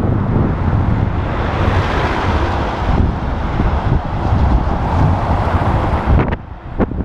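Wind buffeting the microphone of a camera riding on a moving bicycle, with road traffic underneath; the buffeting drops away briefly about six seconds in.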